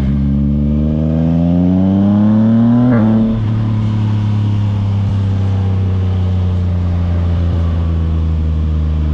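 Yamaha MT-09's 890 cc inline-three engine through an aftermarket exhaust. Its pitch climbs gradually for about three seconds, drops abruptly as the throttle is closed, then settles to a steady lower note over a constant low drone.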